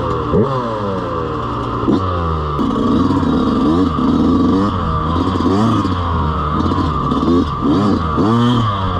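Dirt bike engine revving up and down while riding, its pitch rising and falling again and again with the throttle and gear changes.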